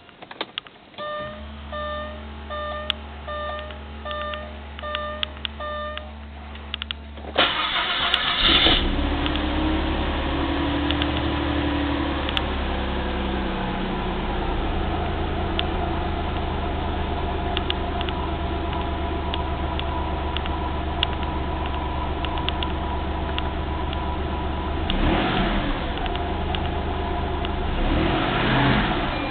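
Maserati Quattroporte IV engine cranked by its freshly repaired starter motor, catching about seven seconds in after a run of repeated electronic beeps. It revs, then settles into a steady idle that sits slightly high after the intake was cleaned, with a couple of brief swells in revs near the end.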